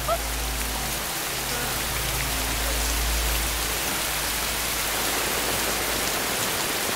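Heavy rain pouring down steadily, a dense even hiss of drops striking the ground, with a low rumble underneath for the first half.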